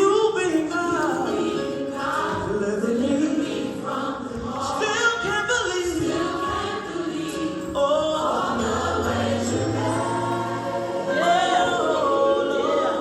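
A church choir singing gospel music, several voices together.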